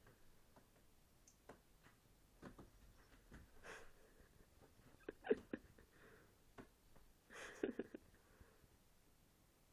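Two cats play-fighting, faint: scattered soft taps and knocks of paws and bodies, with two short breathy bursts about four and seven and a half seconds in.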